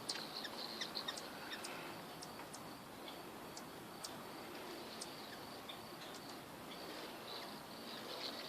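Hummingbirds at a feeder: faint, high, short chip notes scattered irregularly over a steady outdoor hiss.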